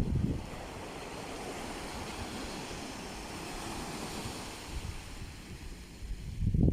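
Mediterranean sea waves washing in as a steady hiss, with wind buffeting the microphone at the start and again near the end.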